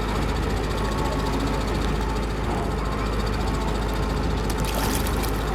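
Boat engine running steadily, a constant low hum, with a brief hiss near the end.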